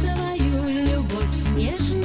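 1990s Russian pop dance music played from a cassette tape: a pulsing bass beat under a gliding melody line.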